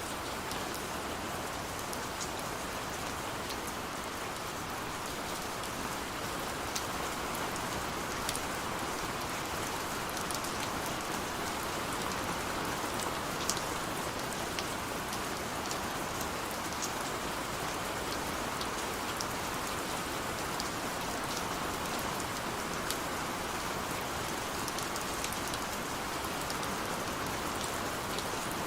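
Steady rain falling, an even hiss with scattered individual drop ticks throughout.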